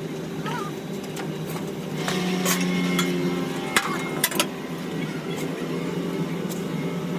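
Steady machine drone in a metal-casting workshop, with about four sharp knocks on metal near the middle, the last two in quick succession.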